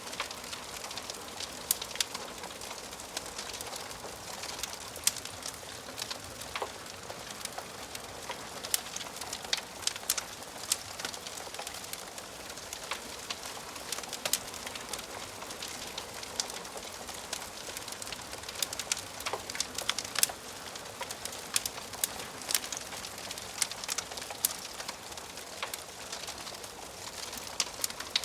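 Wood fire crackling in a fireplace: irregular sharp pops and snaps of burning logs over a steady hiss.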